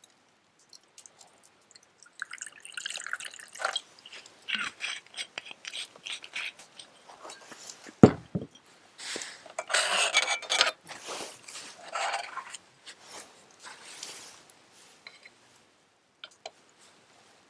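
Liquid pouring and dripping in irregular trickles, with a single sharp knock about eight seconds in.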